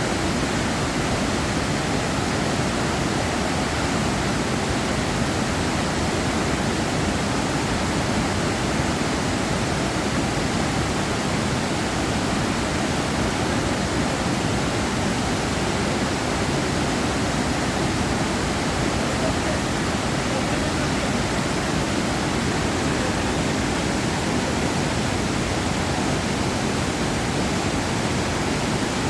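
Steady roar of a large waterfall, the Mandovi River's water cascading down Dudhsagar Falls, an even rushing noise that does not change.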